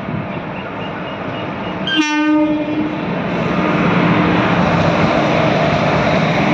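Train horn sounding once about two seconds in, one pitched blast that is bright at first and then fades over the next few seconds, over the rumble of a moving train that grows louder.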